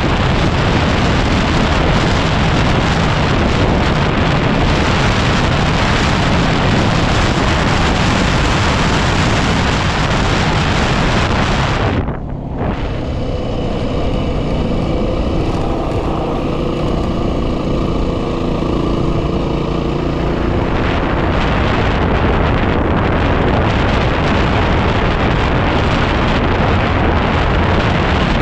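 Yamaha WR250R's 250 cc single-cylinder engine running as the motorcycle is ridden along a dirt desert track, mixed with heavy wind buffeting on the microphone. The sound drops out briefly about twelve seconds in, then carries on.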